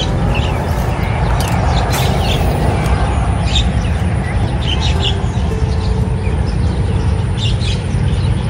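Small birds chirping in short, scattered calls over a loud, steady low rumble.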